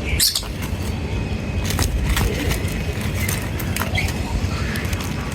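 Small birds giving short, scattered chirps with sharp clicks among them, over a steady low rumble.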